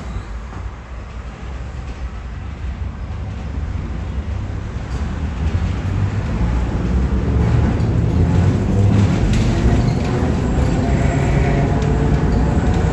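Narrow-gauge tram-train on the Rome–Centocelle line running on its rails, a low rumble that grows steadily louder, with a faint whine rising in pitch.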